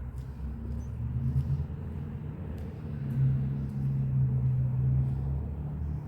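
An engine running steadily with a low hum and rumble, getting louder from about three seconds in.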